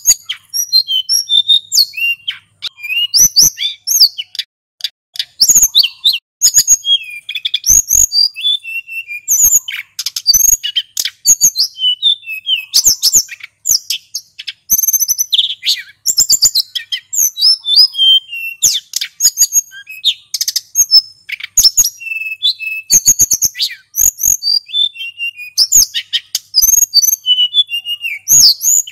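Male sulingan gunung singing without pause: a long, fast song of varied high chirps and whistled slurs, with many short sharp clicks among the phrases.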